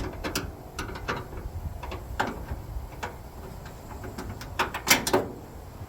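Hand wrenches working a nut and bolt: irregular metallic clicks and clinks, with a louder cluster of clanks about five seconds in.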